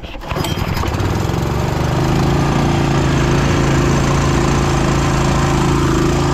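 Small Honda gasoline engine started cold with the choke on: it catches about a third of a second in, builds up over the next second or two, then runs steadily.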